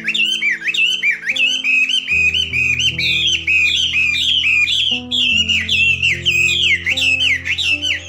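Bird calls, a fast series of high, swooping chirps about three a second, over background music of slow, held chords.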